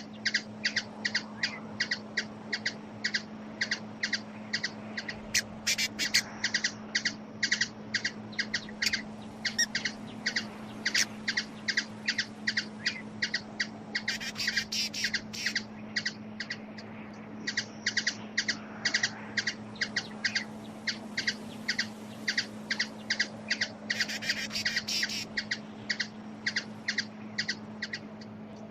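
A bird calling over and over in short notes, about three a second, with two brief bursts of faster, higher chatter. A steady low hum runs underneath.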